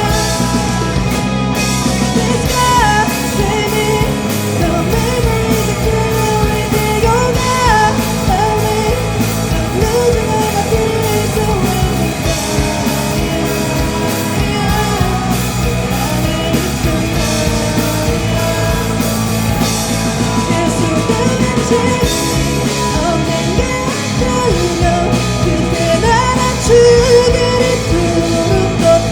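Live rock band playing a song with a singer over drums, bass and electric guitars.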